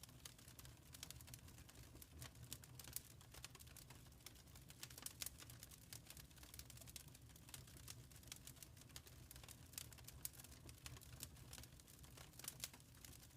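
Wood fire crackling faintly in a fireplace: irregular small snaps and pops over a low steady rumble of the flames.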